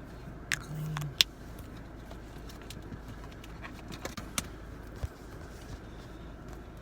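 Low steady background noise with a few sharp clicks, the loudest about a second in, and a brief low hum just before it.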